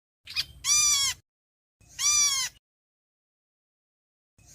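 Flock call of the bird known in Vietnamese as 'héc xoan': three loud, nasal calls about half a second each, every one arching up and then down in pitch, the first led by a short higher note, the last starting near the end.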